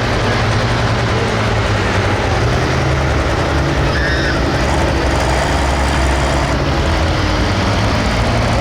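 Pro stock pulling tractor's diesel engine running loud and steady under load, with a deep, even engine note.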